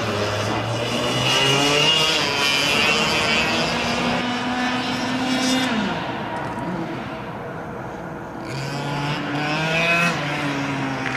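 Easykart 125 racing kart's 125 cc two-stroke engine revving up through a long pull. The revs drop sharply about six seconds in as the throttle is closed, then the engine picks up and revs again from about eight and a half seconds.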